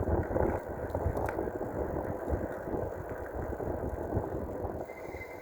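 Rumbling wind on the microphone and road noise from a dual-motor electric bike being ridden. The sound gradually eases, and a faint thin high tone comes in near the end.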